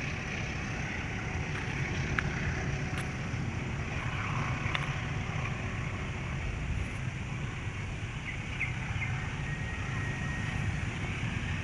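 Passenger train rolling past: a steady rumble of wheels on the track, with a few faint clicks and wind on the microphone.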